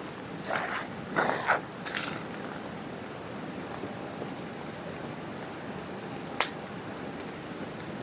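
Outdoor ambience with a steady high insect chirr, likely crickets. A few short handling or rustling noises come in the first two seconds, and one sharp click about six seconds in.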